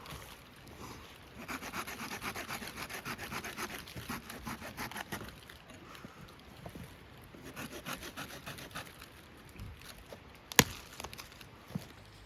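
Sawing wood by hand, quick rhythmic strokes for a few seconds that then grow fainter and more scattered. A single sharp crack comes near the end.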